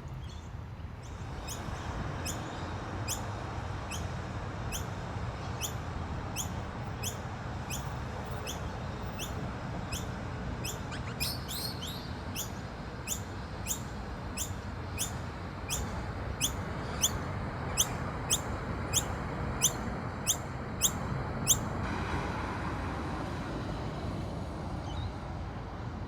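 Pedestrian crossing signal ticking: short high ticks at an even rate of about two a second, getting louder near the end before they stop, over a steady low rumble of city traffic.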